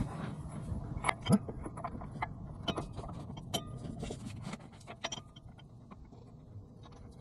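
Scattered small metallic clicks and knocks from tools and parts being handled while a truck shock absorber is being fitted, busier at first and quieter after about four seconds.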